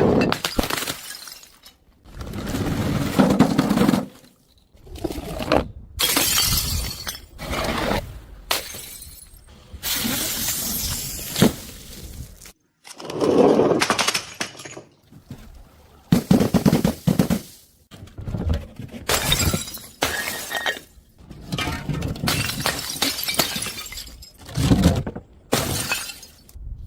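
Glass bottles breaking and shattering, one after another, in a series of short clips that cut off abruptly between them.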